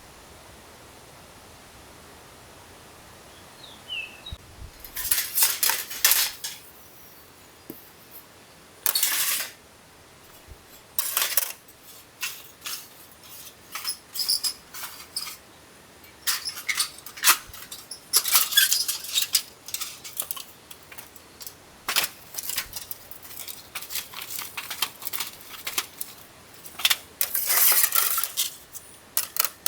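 Camping gear being packed away by hand: irregular clinks and clatters of hard items with short rustling bursts, starting a few seconds in after a steady faint background hiss.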